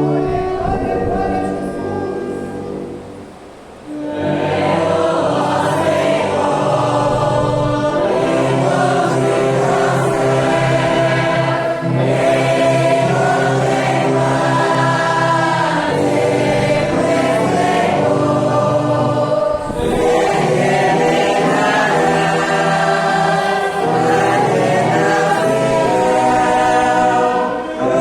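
A church congregation singing a hymn in unison with an orchestra of strings and brass. An instrumental phrase dies away about three seconds in. The full singing and playing come back a moment later and carry on, with a short break between lines near the twenty-second mark.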